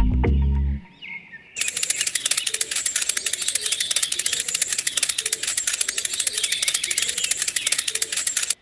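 Music with deep bass notes cuts off under a second in; after a short gap, a fast, steady rattling clatter of rapid clicks starts about a second and a half in and keeps going.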